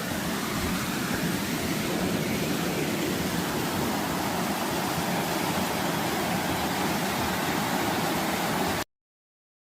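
Steady rush of fast-flowing water, like a waterfall close by, that cuts off suddenly near the end.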